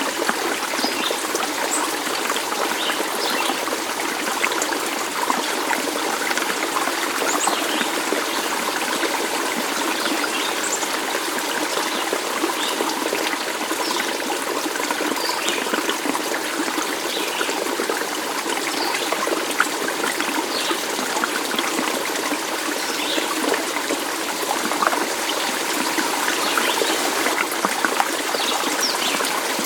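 Small stream trickling and babbling steadily over stones, with scattered brief high-pitched plinks.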